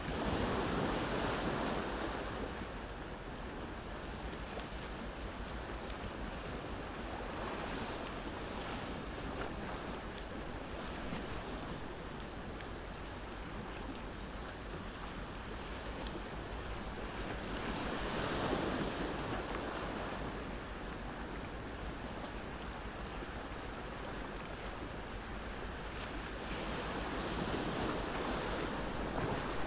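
Ocean waves washing ashore, surging three times in a steady wash of surf. A wood fire crackles faintly now and then underneath.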